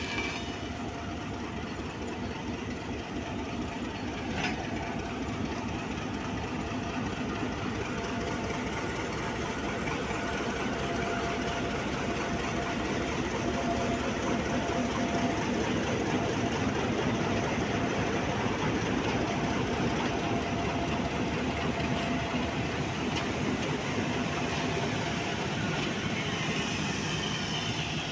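Pakistan Railways HBU-20 diesel-electric locomotive running as it passes slowly, followed by its coaches rolling by on the rails in a steady rumble.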